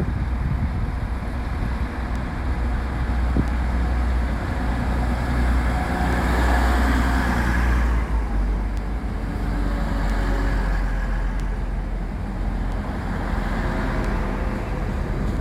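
TransPennine Express passenger train pulling out of the station: a steady low rumble of engine and running noise that swells in the middle, eases off about eight seconds in, and rises again near the end.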